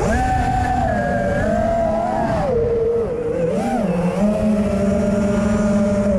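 Brushless motors of an FPV racing quadcopter whining. Several tones move in pitch together, dipping and wobbling around the middle, then hold steady. The quad was running badly on this flight, the first pack after an ESC was replaced.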